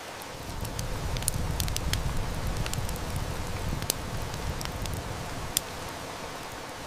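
Steady heavy-rain hiss mixed with a wood fire crackling, with sharp snaps and pops scattered throughout. A low rumble of distant thunder swells about half a second in and fades away after about five seconds.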